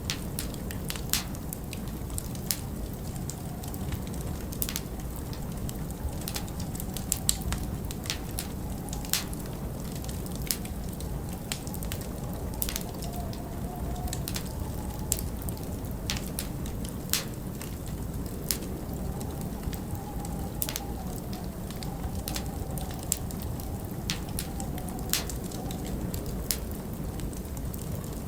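Wood fire burning in a fireplace, with irregular sharp crackles and pops from the logs over a steady low rumble of winter wind. Now and then the wind rises into a faint wavering whistle.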